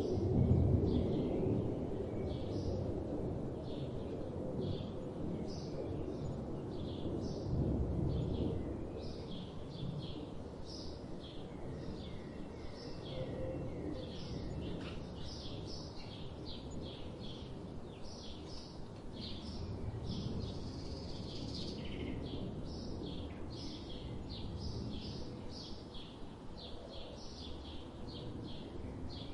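Many small birds chirping in quick short notes throughout, over a steady low rumbling background noise that swells briefly near the start and again about eight seconds in.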